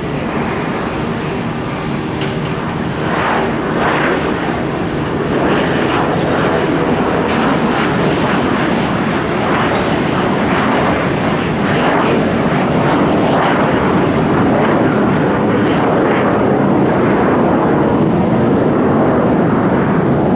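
Jet airliner's engines at high power, loud and building steadily, with a faint high whine slowly falling in pitch; typical of a jet on its takeoff run.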